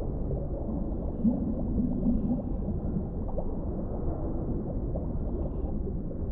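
Underwater ambience: a steady, muffled low rumble of deep water with faint gurgles and bubbly blips scattered through it.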